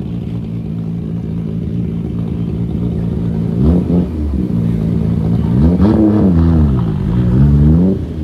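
Car engine idling, then revved three times: a quick blip, then two longer revs that climb and fall back.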